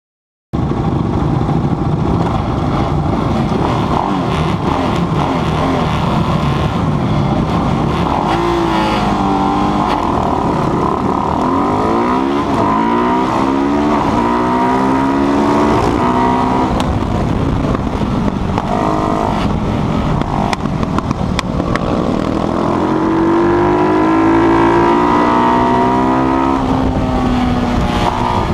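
Single-cylinder racing motorcycle engine, built on a KTM 690 motor, running hard. It cuts in suddenly just after the start, and its pitch climbs and drops again and again as it revs up through the gears and backs off.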